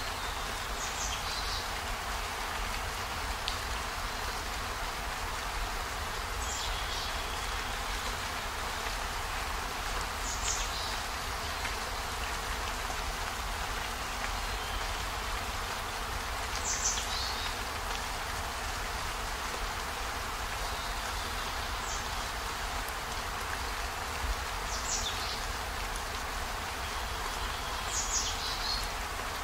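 Steady rain falling as an even hiss. Every few seconds a short, high chirp drops in pitch above it.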